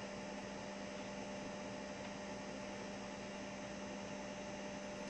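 Steady electrical hum with a faint hiss underneath, unchanging throughout: room tone picked up by the microphone.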